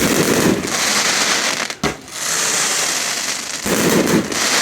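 Fireworks going off: long stretches of dense crackling, with a sharp bang just before two seconds in.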